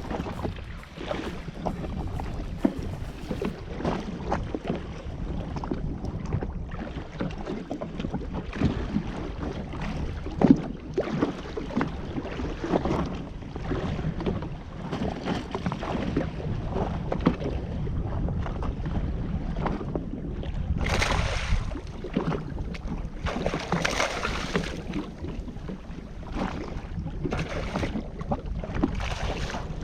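Wind buffeting the microphone and water splashing around a jetski on the open sea, a rough, uneven rush with irregular slaps. Brighter bursts of hissing spray come about two-thirds of the way in and again near the end.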